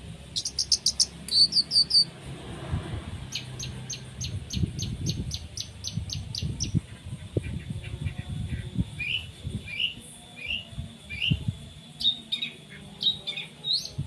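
Long-tailed shrike singing a fast, varied song of sharp high notes: a quick run of notes in the first two seconds, then a long, even series of about three or four notes a second, then short rising notes. Low knocks sound underneath through the middle.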